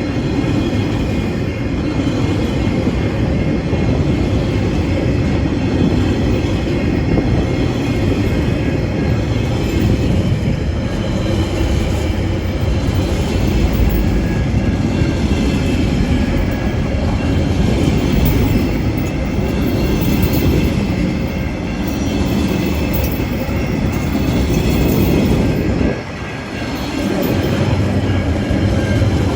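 Tasrail freight train rolling past close by: a steady, loud rumble of wheels on the rails, easing briefly about 26 seconds in before picking up again.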